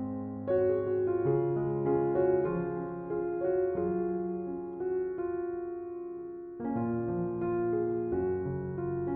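Background piano music: a slow, gentle piece with held notes.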